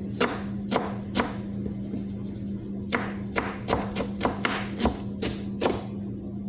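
Kitchen knife chopping on a cutting board: three strikes in the first second or so, then after a pause a quicker run of about three strikes a second. A steady low hum runs underneath.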